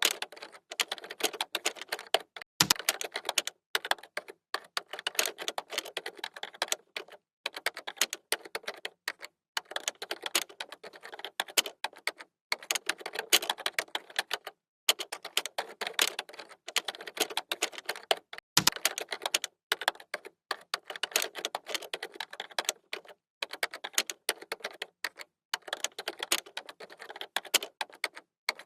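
Fast typing on a computer keyboard: rapid runs of key clicks broken by short pauses every second or two, with a couple of heavier key strikes along the way.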